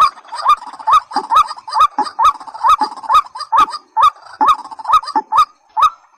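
Recorded calls of a waterhen-type rail: a short rising note repeated a little over twice a second, each with a sharp click.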